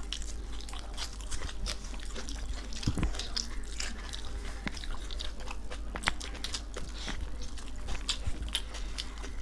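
Close mouth sounds of chicken biryani being eaten: chewing and smacking, with irregular clicks and small crunches throughout.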